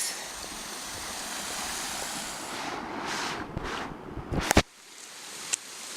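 A low, drought-shrunk creek trickling and running, a steady rushing hiss. A sharp knock comes about four and a half seconds in, and after it the rushing is quieter.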